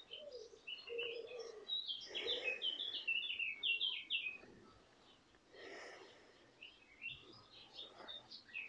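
Small songbirds chirping and twittering in quick runs of short notes, busiest through the middle and again near the end, with a few soft breaths or rustles in between.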